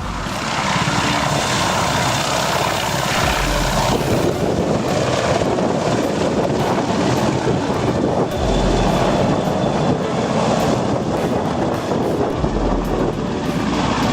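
Aircraft engine noise from an aircraft flying by, loud and steady.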